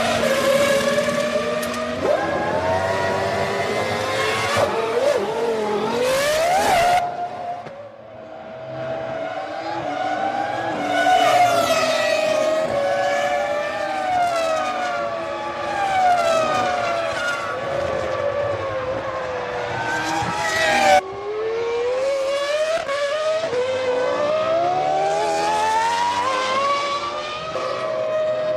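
Formula One cars' 3-litre V10 engines at racing speed, the pitch climbing through the gears and dropping away under braking, over and over. The sound changes abruptly twice, at about 7 and 21 seconds in.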